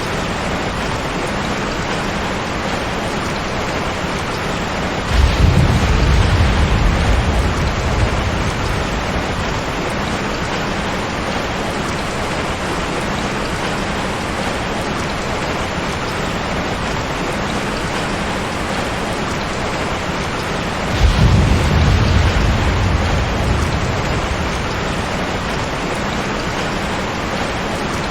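Steady rain with two rolls of thunder, one about five seconds in and one about twenty-one seconds in, each starting suddenly as a deep rumble and dying away over a few seconds.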